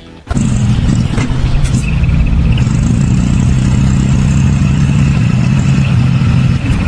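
An engine running loudly and steadily at an even pitch, with a few light clatters over it.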